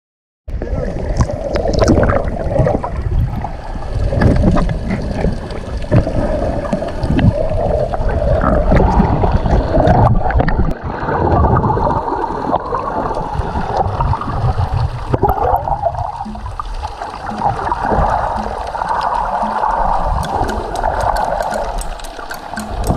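Water sloshing and gurgling close to the microphone, over a constant low rumble; it starts abruptly about half a second in.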